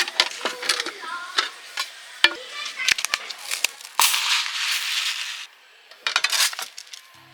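Metal camp cookware and utensils clinking and knocking as they are handled, then a steady hiss for about a second and a half, followed by a few more clicks.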